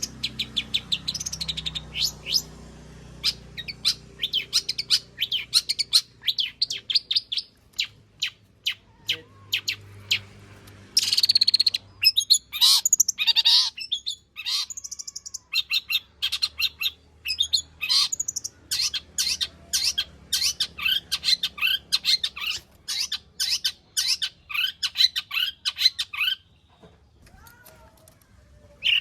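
Long-tailed shrike singing a long run of rapid, sharp repeated chirps and trills, with a harsh scratchy burst about eleven seconds in and a short pause near the end. The song is packed with mimicked phrases of other birds.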